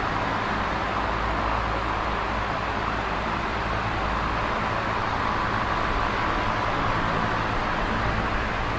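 Electric fan running steadily: an even rush of moving air, strongest in the middle pitches, over a faint steady low motor hum.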